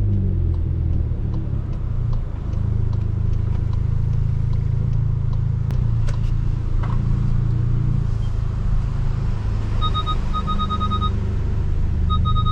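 Stage 2 tuned Volkswagen Polo GTS's turbocharged four-cylinder engine with sport exhaust, its revs falling at the start and then settling into a steady low rumble. From about ten seconds in, short high electronic beeps repeat, quickening into a near-continuous tone at the end.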